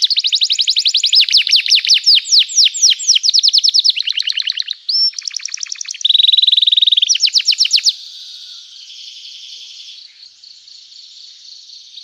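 Domestic canary singing in full voice: fast rolling trills of rapid repeated chirps. About six seconds in it holds one buzzy note. In the last four seconds the song turns much softer.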